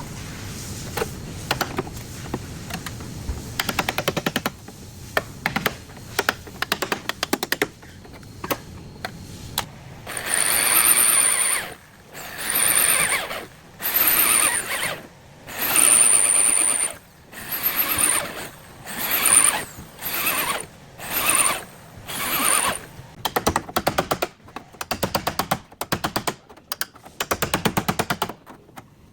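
A hammering power tool runs in repeated bursts of about a second, roughly every two seconds, each with a rapid rattle and a high whine. Rapid clicking comes before and after the bursts.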